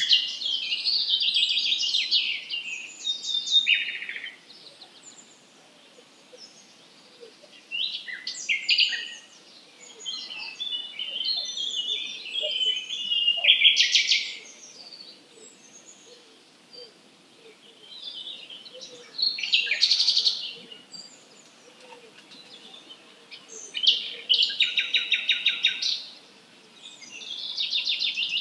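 Songbirds singing in high, varied phrases of chirps, whistles and trills, each a few seconds long with short pauses between. About two thirds of the way through comes a fast rattling trill of rapidly repeated notes.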